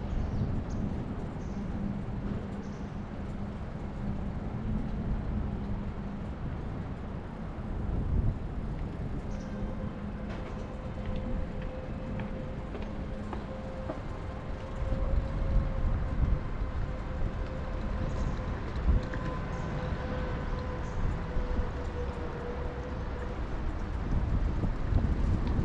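City traffic noise heard from a moving bicycle: a steady low rumble with wind on the microphone. From about ten seconds in, a steady pitched whine holds for around thirteen seconds and then fades.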